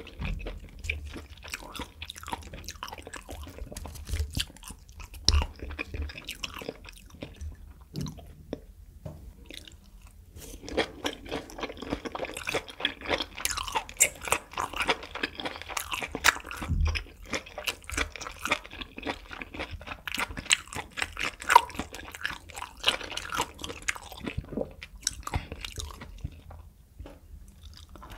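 Close-miked chewing of grilled beef intestines (makchang): a dense run of small mouth clicks and smacks, thickest through the middle stretch, with a fresh bite near the end.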